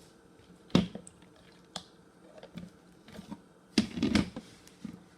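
Hard plastic parts of a Hoover Air Cordless Lift vacuum clicking and knocking as they are handled. A sharp click comes a little under a second in and another about a second later, then a short clatter of knocks near the end.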